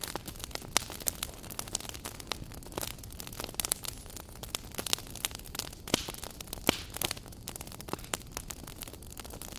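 Wood fire burning in a fireplace, crackling with irregular sharp pops over a steady low hiss.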